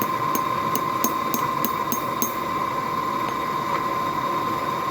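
A forge running steadily, a constant rushing noise with a steady high whine in it. Light, evenly spaced ticks about three a second sound over it and stop a couple of seconds in.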